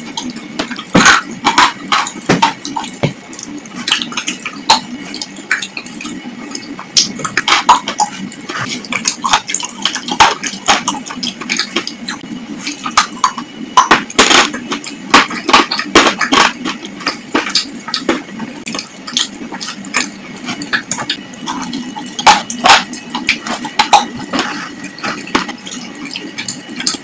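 Wet chalk mixture being chewed: irregular sharp wet crunches, crackles and mouth smacks, one after another.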